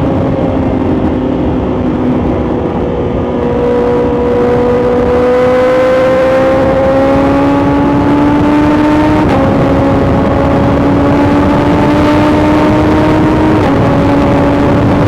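BMW S1000XR's inline-four engine through an Akrapovic titanium full exhaust, heard from onboard while riding. The engine note climbs slowly under light acceleration and drops suddenly twice, about nine and thirteen and a half seconds in, as the rider shifts up.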